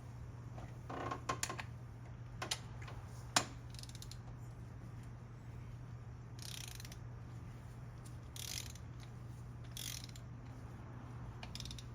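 Ratchet wrench tightening a spark plug back into a 2006 Hummer H3's engine: a few sharp clicks in the first few seconds, then four short bursts of ratcheting, over a steady low hum.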